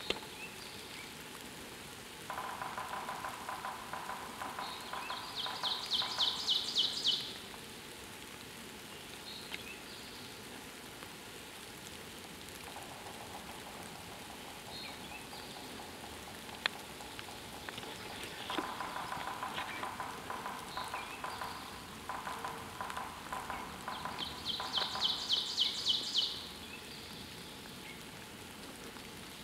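Woodland birdsong over a steady hiss: twice, a long rapid trill, lower at first, then a higher phrase that grows louder before it stops. One sharp click between the two songs.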